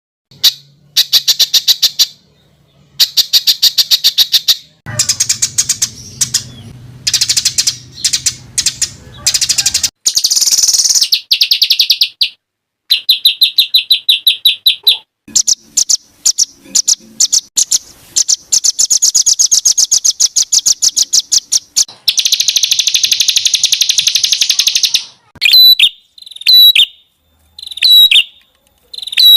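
Recorded songbird calls in rapid, dense trills and chattering rattles. They come in bursts of one to three seconds with short silences between, and the repeated notes run many to the second. This is the coarse, tight 'tembakan' material used as tutor song (masteran) for competition songbirds.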